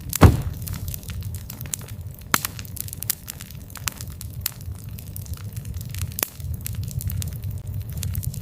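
Wood fire burning with a steady low rumble and frequent irregular crackles, with a loud pop about a quarter second in and a few sharper snaps later.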